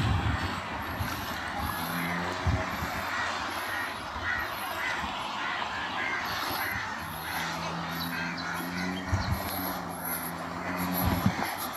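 Ocean waves washing on a beach with breeze, a steady hiss. A row of short calls sounds a couple of seconds in, and a low steady hum like a distant engine runs through the second half.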